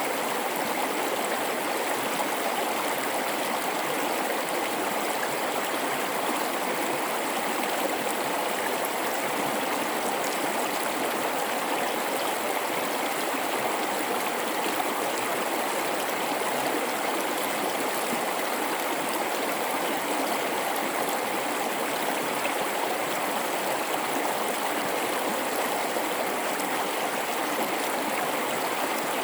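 River water flowing through a gorge: a steady, unbroken rush.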